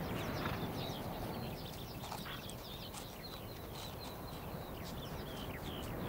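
Small birds chirping over and over in short, quick downward notes, over a steady low outdoor rumble.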